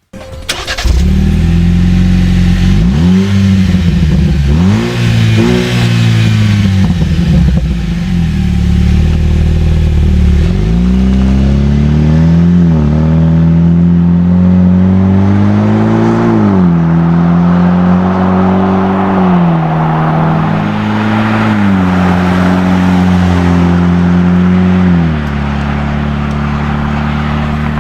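Jeep Wrangler JL's turbocharged 2.0-litre four-cylinder running through an MBRP cat-back exhaust, idling with about five short revs that rise and fall in pitch. It settles back to a steady idle near the end.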